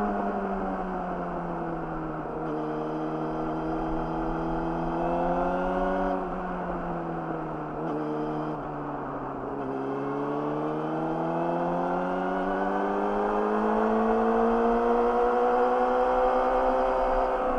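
Yamaha YZF-R6 inline-four through an Akrapovic slip-on exhaust, heard from the rider's seat: the revs fall as the throttle eases off, stay low with small dips around the middle, then climb slowly and steadily in the second half.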